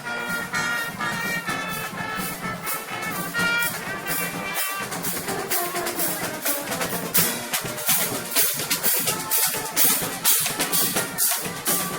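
Parade marching band: brass holds a phrase of sustained notes for the first few seconds, then snare and bass drums take over with a dense, driving beat.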